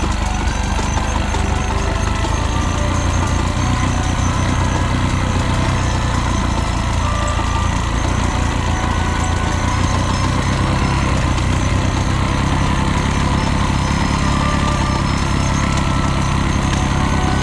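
Motorcycle engine running steadily at a constant, even pitch.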